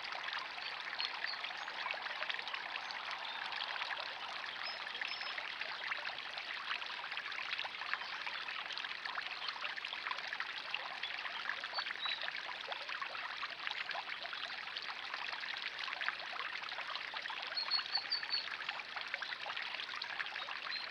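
Water steadily trickling and splashing into a backyard pond, with a few faint, short, high bird chirps scattered through it and a small cluster near the end.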